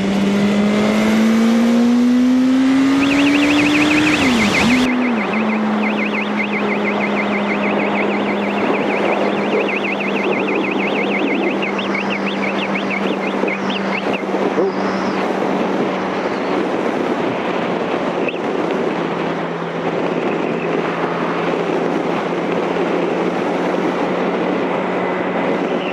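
Yamaha R1 inline-four engine pulling hard, its note climbing for about four seconds, dropping sharply at a gear change, then holding steady at cruise under constant wind rush. A quick repeating high electronic chirping runs from about three seconds in to about fourteen seconds.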